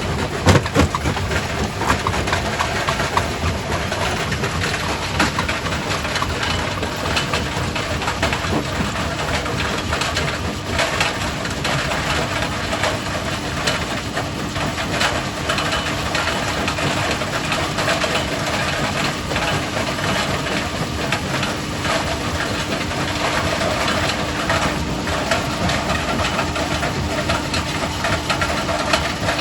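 Quarry primary rock crusher running under load: a steady machine hum under a continual clatter of knocks and cracks as rock is broken.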